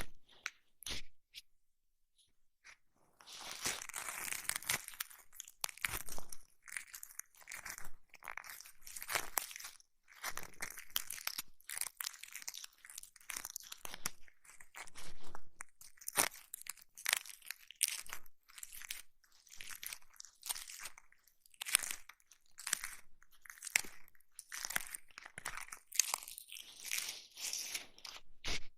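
ASMR ear massage and cleaning sounds: close-up crackly rubbing and scratching at the microphone in irregular strokes, with a short pause about a second in.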